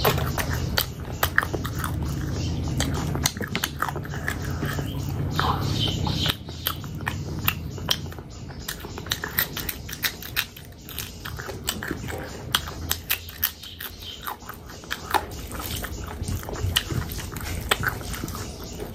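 Close-miked eating: chewing and biting with wet mouth smacks and crisp crunches, including bites of a raw green chilli about halfway through.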